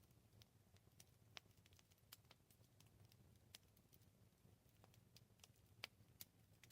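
Faint campfire crackling: irregular sharp pops and snaps, some louder than others, over a low steady rumble of burning wood.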